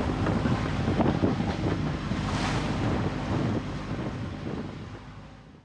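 Wind buffeting the microphone and water rushing past the hull of a sailboat under way, with a steady low hum beneath. The sound fades out near the end.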